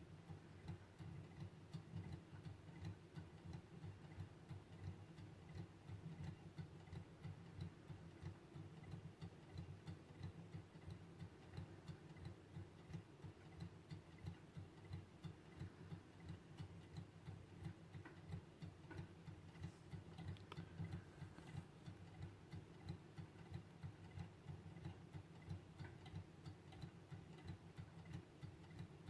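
Small hand-made Stirling engine running, its mechanism ticking faintly and evenly at roughly two and a half beats a second.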